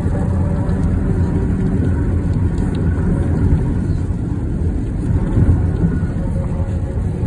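Loud, steady low road rumble of a vehicle travelling on a highway: tyre and engine noise, with a faint steady hum over it.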